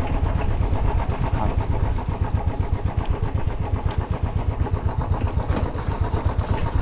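Motorcycle engine running with a fast, even, low pulsing beat.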